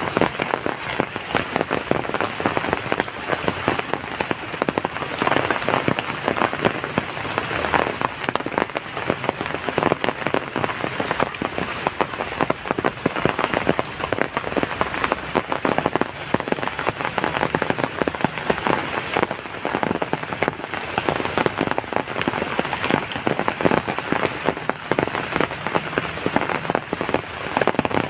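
Heavy rain falling steadily, a dense, unbroken patter of drops hitting a surface.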